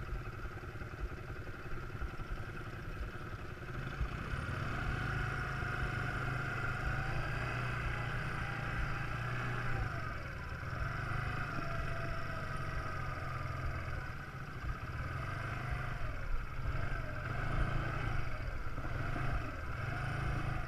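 Quad bike engine running as it is ridden, its revs rising and falling. It gets louder about four seconds in and eases off briefly around ten and fourteen seconds.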